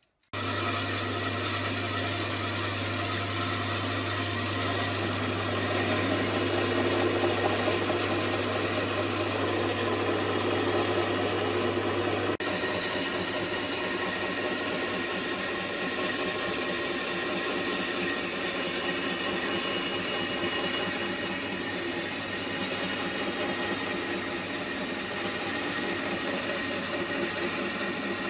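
Electric power tool running steadily as it works wood, a continuous machine noise with no pauses. A low hum underneath stops abruptly about twelve seconds in.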